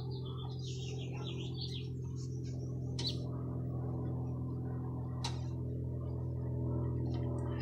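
A bird chirping and warbling during the first second or so, over a steady low drone. Two sharp clicks come about three and five seconds in, from hands working the fuel line off the generator's carburetor.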